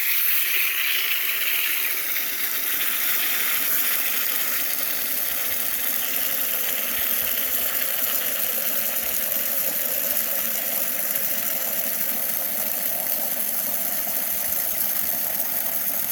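Water running from a hose into a container, a steady rushing hiss as it fills.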